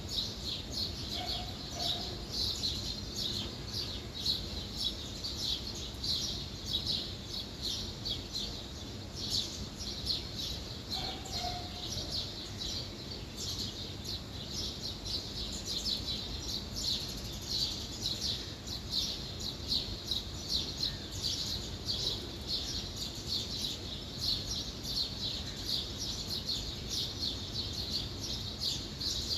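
Small birds chirping busily and without pause, a dense stream of short high chirps.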